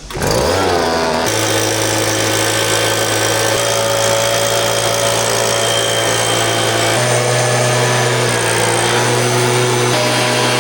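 An electric motor starts with a sharp rise and winds up in pitch over about a second, then runs steadily and loudly, its pitch shifting slightly about seven seconds in.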